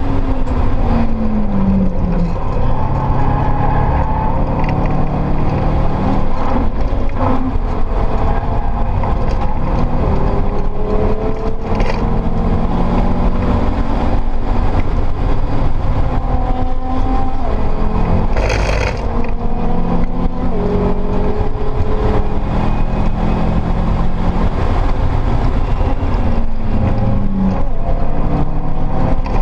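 Modified Subaru Impreza WRX STi heard from inside the cabin at track pace: its built, turbocharged EJ flat-four with a Blouch G18XT turbo pulls through the gears over steady road and wind noise. Engine pitch falls near the start and rises again several times under acceleration. A short hiss comes about two-thirds of the way through.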